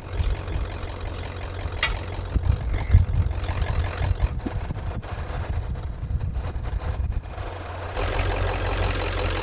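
Ford Power Stroke diesel truck engine idling with a low rumble. There is a sharp click about two seconds in, and near the end the sound turns steadier with more hiss.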